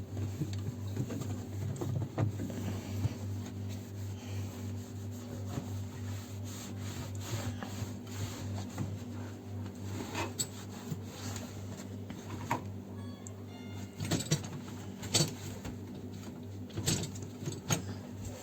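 Hand rubbing and scrubbing inside a dishwasher, with irregular scraping strokes and light knocks, over a steady low hum.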